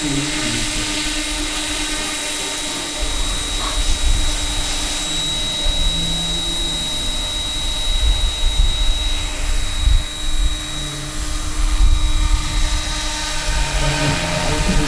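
Roban EC 665 Tiger scale RC helicopter running, a steady high whine over an uneven low rumble. The whine fades away about nine seconds in.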